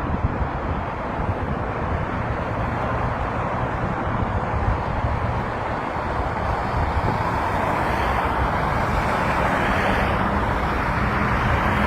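Steady road traffic noise, a continuous rumble of vehicles that grows louder over the last few seconds as a vehicle draws near.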